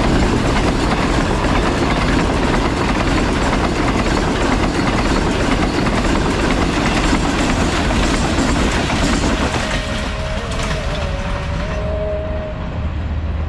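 Passenger coaches of the Green Line express passing close at speed, a steady rush of wheels on rail that eases off in the last seconds as the train draws away.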